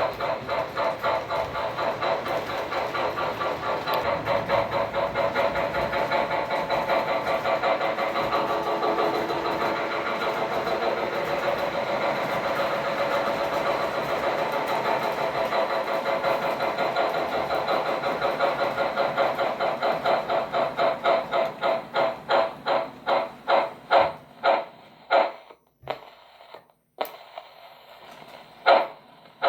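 Model steam locomotive's sound system chuffing in a fast, even rhythm. Near the end the chuffs slow and spread apart until only a few separate puffs are left, as the locomotive slows down.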